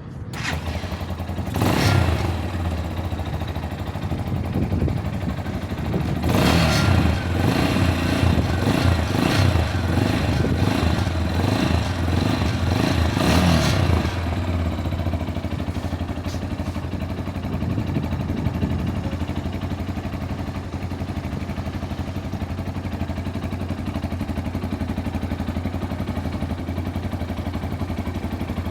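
Tekken 250cc motorcycle engine running, revved briefly about two seconds in and again for several seconds in the first half, then settling to a steady idle.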